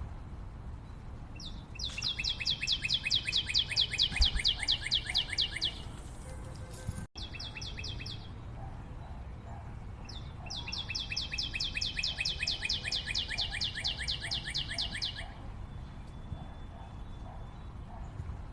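A bird singing long, fast trills of evenly repeated high notes, each run lasting about four seconds and sliding slightly lower in pitch. The song comes twice, with a short burst between, over fainter calls.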